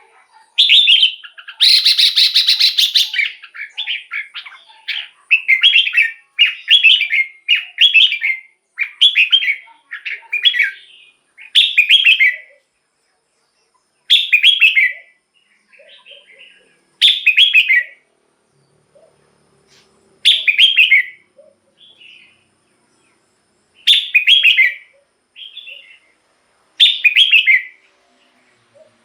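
Red-whiskered bulbul singing: short, bright warbled phrases in quick succession for the first dozen seconds, then one phrase about every three seconds.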